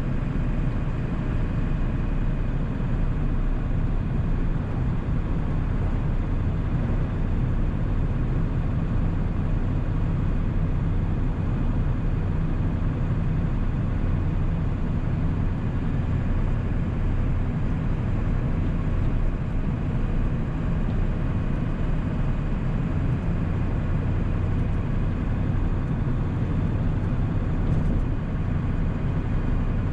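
1997 Ford 7.3 L Powerstroke turbo-diesel V8 running at a steady cruise, with road and tyre noise from the moving truck. The engine note holds even throughout, with no revving up or down.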